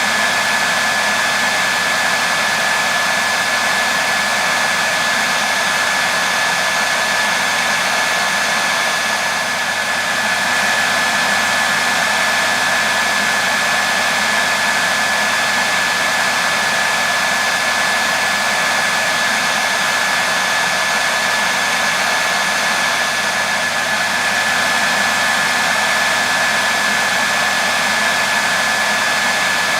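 Hair dryer running steadily on one setting: a constant rush of blown air with a steady high whine from its motor and fan.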